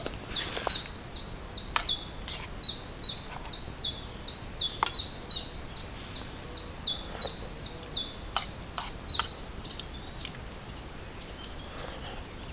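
A small songbird singing a fast, even run of about two dozen identical high notes, each dropping in pitch, stopping after about nine seconds. Scattered light ticks sound throughout.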